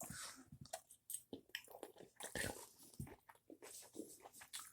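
A person chewing a mouthful of sushi close to the microphone: faint, irregular small clicks and mouth sounds.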